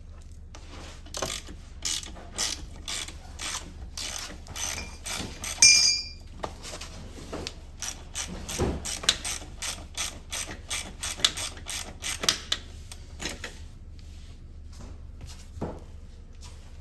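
Hand ratchet wrench clicking in repeated short strokes as the exhaust bolts on a Yamaha PW80 pit bike are worked loose, with a louder ringing metal clank about six seconds in. The clicking stops a little past the middle, leaving only a few scattered clicks.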